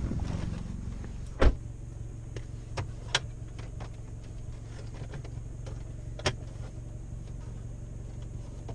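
Car engine idling steadily, with a few sharp clicks or knocks; the loudest click comes about one and a half seconds in.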